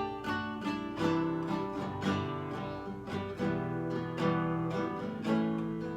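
Lyle nylon-string acoustic guitar strumming chords in a steady rhythm, with no voice over it.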